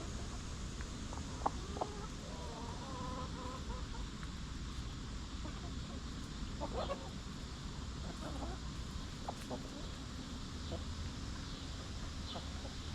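A flock of hens clucking softly at intervals while foraging, with a few short scratching or pecking clicks, over a steady low rumble.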